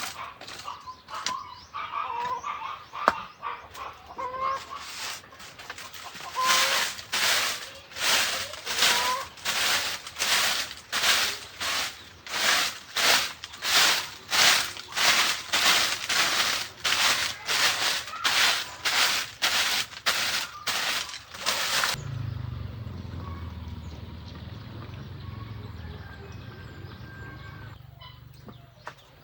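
Chickens clucking in short calls, then a steady run of noisy strokes about two a second for some fifteen seconds. The strokes stop abruptly and give way to a low steady rumble that fades away.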